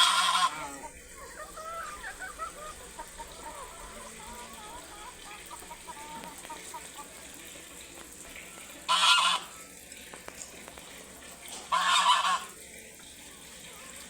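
Three loud, harsh bird calls, one near the start, one about nine seconds in and one about twelve seconds in, with faint twittering chirps between them.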